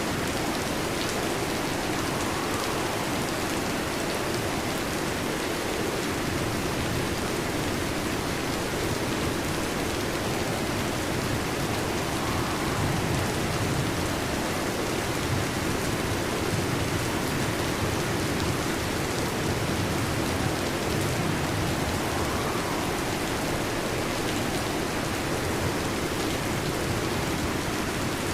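Steady heavy rain: a dense, even hiss of falling drops that holds at the same level throughout.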